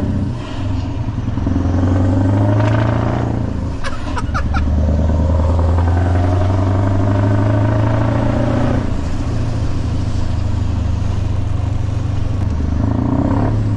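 Scania R500 V8 truck engine through a straight-piped side exhaust, pulling hard under acceleration. The note dips briefly about half a second in and again about four seconds in, as at gear changes, and its pitch shifts again near the end.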